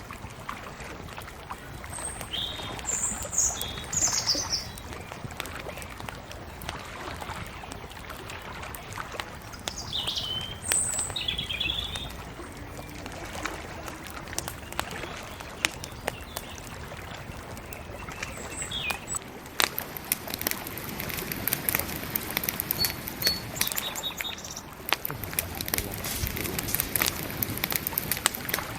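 Bonfire crackling with sharp pops over a steady hiss, the pops growing dense in the second half. Small birds chirp in short bursts several times over it.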